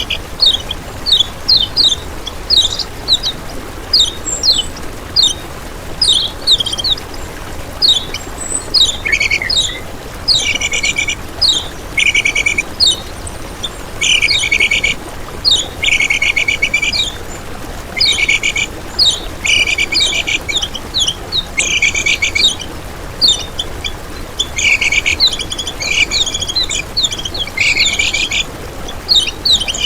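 Kecial kuning, a small white-eye songbird, singing rapid high chirps. At first these are short falling notes; after about ten seconds they become dense, buzzy trilled phrases repeated every couple of seconds.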